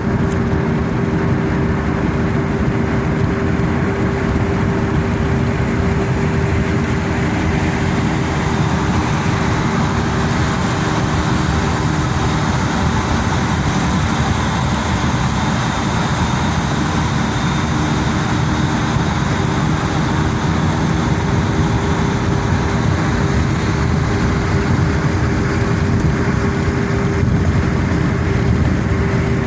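Car driving on the road: steady road and engine noise, a dense low rumble with a constant hum over it.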